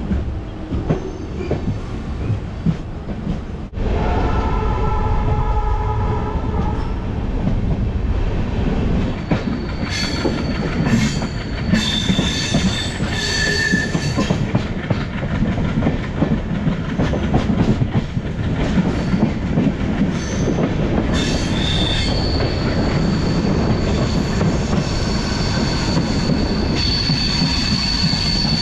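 Passenger train coaches heard from the doorway, running with a steady rumble and clatter over the rails. High-pitched wheel squeal comes in about ten seconds in and again in the last third, as the train slows into the station.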